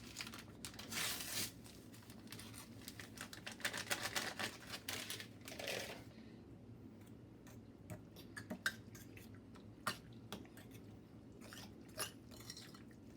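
Packet of instant pudding mix being torn open and crinkled, with the dry mix shaken into a bowl, followed by a few scattered light clicks of a fork against the bowl.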